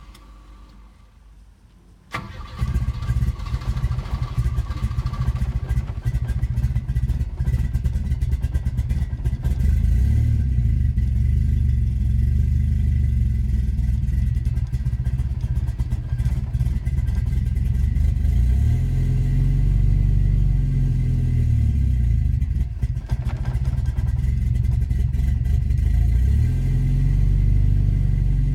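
Volvo B230F turbo four-cylinder engine starting abruptly about two seconds in, then running with its engine speed rising and falling several times. This is a cold start on an engine with starting difficulties.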